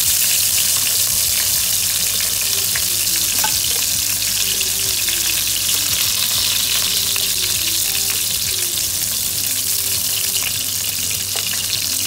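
Whole king prawns sizzling steadily as they shallow-fry in hot oil in a nonstick pan, with a few light clicks of metal tongs turning and lifting them.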